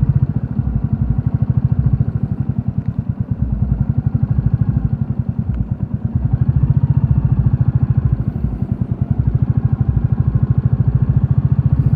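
Royal Enfield Classic 350's single-cylinder engine running on the move, its exhaust pulses in a fast, even rhythm. It drops a little in level for a few seconds in the middle, then picks up again.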